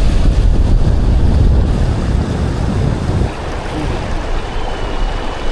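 Wind buffeting the microphone over the steady rush of a mountain stream; the gusts ease about three seconds in.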